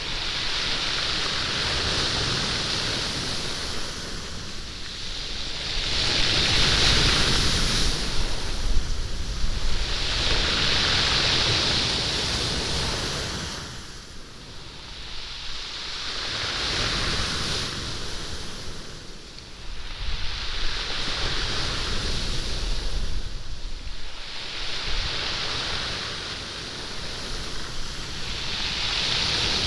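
Waves surging up a stony beach and draining back, pebbles rattling and rolling in the wash. The surges swell and fade about every three to four seconds.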